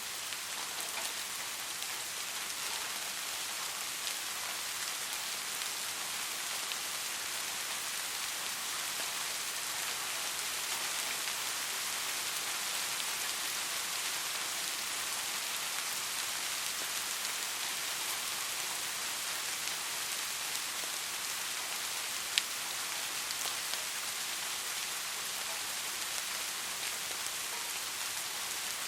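Steady rain falling on a surface, an even hiss with fine patter throughout. One louder, sharp tap comes about three quarters of the way through.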